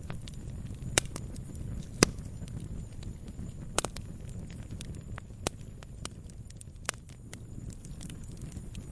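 Campfire crackling: irregular sharp pops of burning wood, the loudest about two seconds in, over a steady low rumble of the flames.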